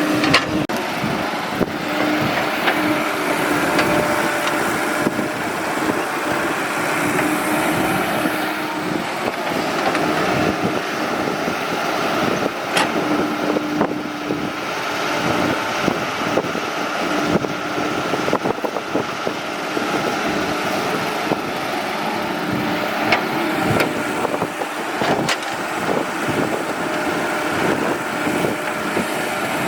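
Excavator's diesel engine running steadily, with a few sharp knocks.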